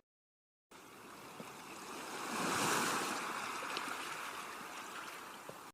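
A rushing noise with no clear tone, like surf or wind outdoors. It swells about two seconds in, eases off, and cuts off suddenly at the end.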